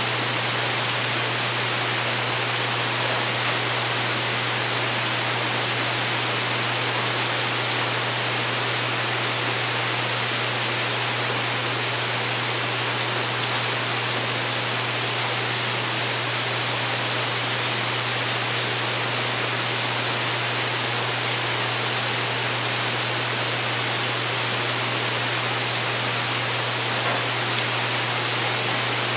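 Steady rain falling on a porch roof, an even hiss that does not change, with a steady low hum underneath.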